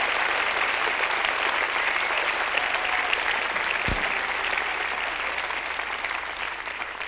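Concert audience applauding and cheering, the applause slowly dying down. There is a single low thump about four seconds in.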